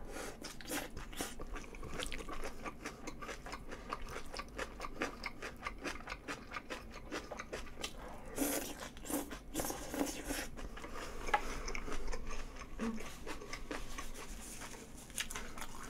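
A person chewing and crunching food close to the microphone, a dense run of small crisp clicks and squelches. A few louder crunchy bites come about eight and a half to ten seconds in.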